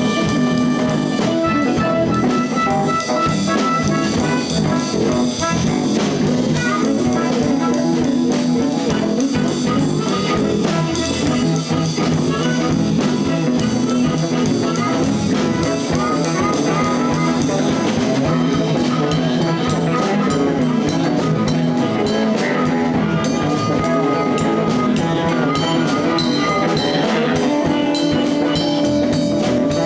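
Live blues band playing an instrumental passage: drums, bass and guitar under a lead line of long held, bending notes, which in this line-up is most likely the blues harmonica.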